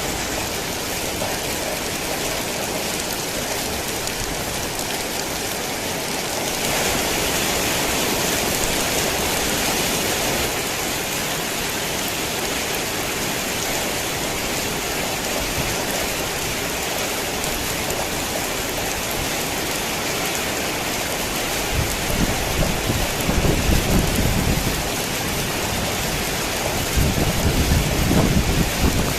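Heavy rain falling in a steady hiss, briefly heavier about a quarter of the way in. Two low rumbles of thunder roll in during the last third.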